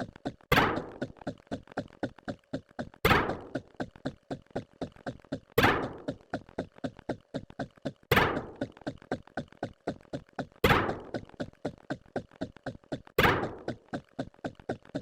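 Looping sound effect: a loud thunk about every two and a half seconds, with a fast run of quick clicks, about eight a second, between the thunks.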